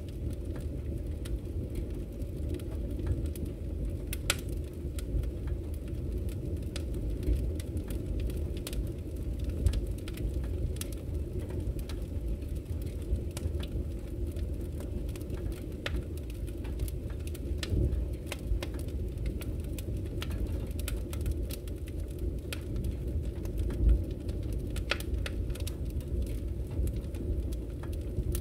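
Wood fire burning in a fireplace: a steady low rumble of flames with scattered sharp crackles and pops, one louder pop about ten seconds in and another near twenty-four seconds.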